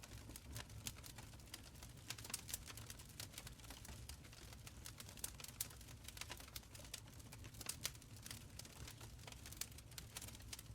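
Wood fire crackling in a stone fireplace: many small, irregular pops and snaps over a low, steady rumble of the flames.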